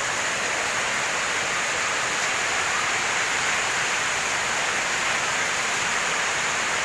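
Heavy rain falling, a steady hiss with no letup.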